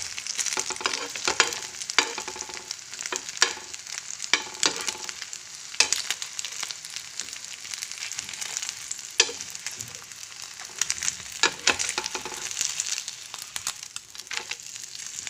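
Egg roll frying in a nonstick pan, sizzling steadily, with frequent sharp clicks and scrapes of a steel spoon against the pan as the roll is lifted and turned.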